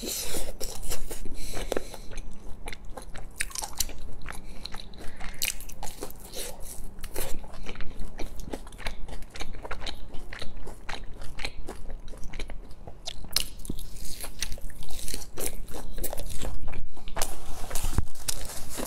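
Close-miked crunchy biting and chewing of crisp, battered deep-fried eggplant slices: a quick run of irregular crackling crunches, thicker in the second half.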